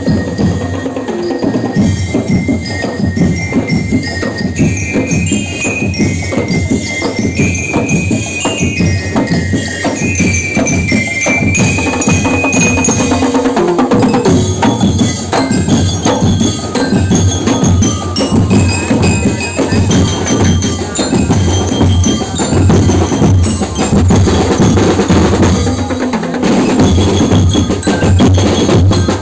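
Ati-Atihan tribal percussion band playing: fast, dense drumming with bell-like struck notes picking out a stepped melody over it.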